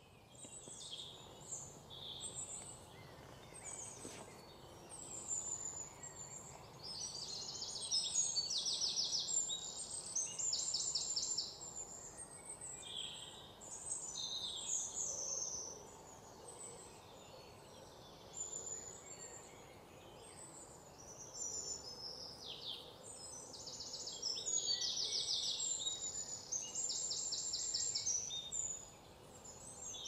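Songbirds chirping and singing: short downward-slurred calls and bursts of fast trilled notes, in phrases coming and going over a faint steady background hiss.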